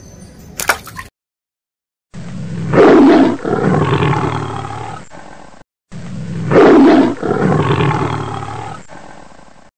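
A tiger roaring: the same recorded roar played twice in a row, each about three and a half seconds long, loudest near its start and then fading out.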